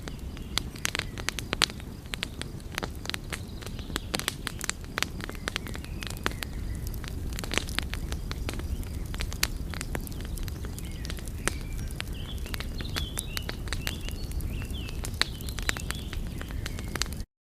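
Wood fire crackling: frequent irregular sharp pops and snaps over a steady low rumble of burning. The sound cuts off abruptly at the very end.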